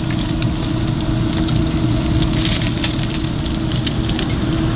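Green onion pancakes and an egg shallow-frying in hot oil in a wide pan, sizzling and crackling steadily, over a constant low hum and rumble.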